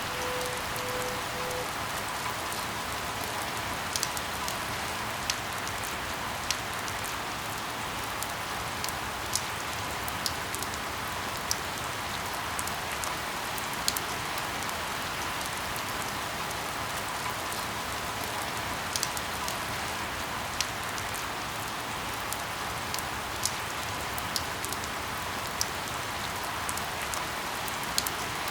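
Steady rain falling, an even hiss with single louder drops striking close by every second or two.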